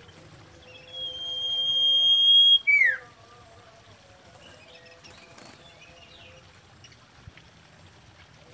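Common iora whistling: a single long, steady high whistle about a second in, growing louder for nearly two seconds, then a short note sliding downward. Faint chirps follow.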